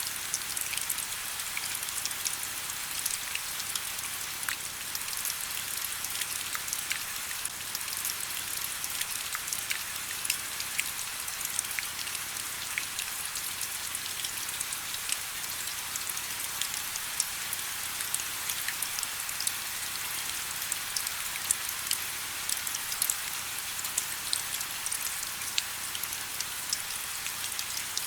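Steady rain falling, a dense hiss with many individual drops ticking sharply on hard surfaces.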